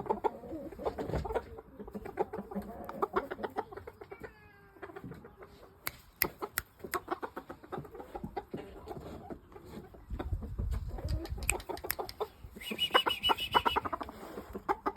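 Chickens clucking, mixed with sharp knocks and rustling from handling. Near the end there is a louder, higher-pitched run of calls lasting about a second.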